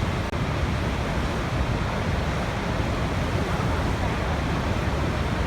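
Waterfall water rushing and crashing in a steady, deep wash of noise.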